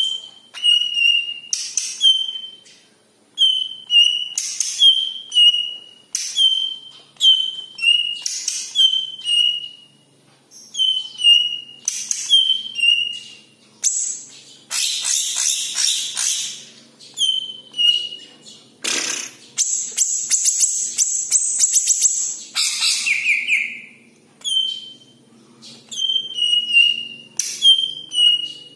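Cucak ijo (green leafbird) singing: a short whistled note that drops in pitch, repeated about once a second, broken in the middle by harsh chattering phrases and a quick run of rapid ticks.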